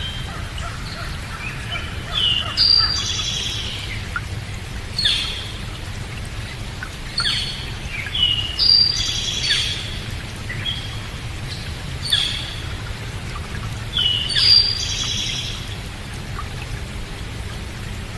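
Birds calling: short, sharp chirps in little clusters every two to three seconds, over a steady low background noise.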